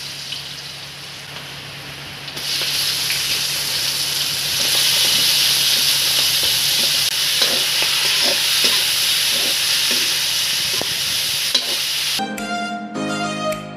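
Onion and garlic sizzling in hot oil in a large iron wok, the sizzle turning suddenly louder about two seconds in as raw meat is tipped into the oil, with small scrapes and clicks of a spatula stirring. Violin music starts near the end.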